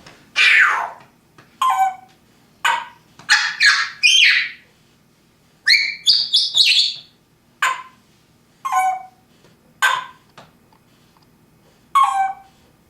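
African grey parrot making a string of short squawks and whistles, about a dozen in all, several of them sliding down in pitch.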